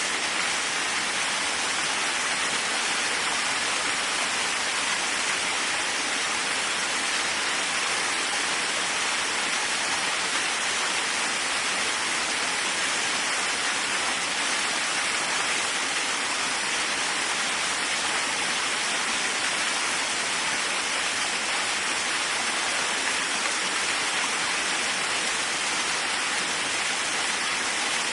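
Waterfall: a steady, unchanging rush of falling water, a dense hiss strongest in the upper range.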